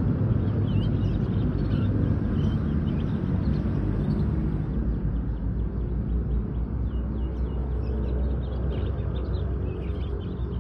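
Young canary chirping in many short, faint notes over a loud, steady low rumble; the chirps come thicker in the second half.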